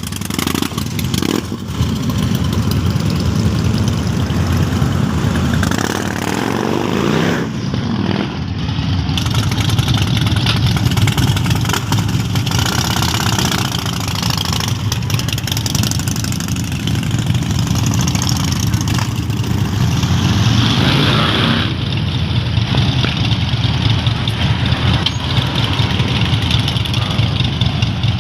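Motorcycle engine running steadily, with the revs rising and falling briefly a few times.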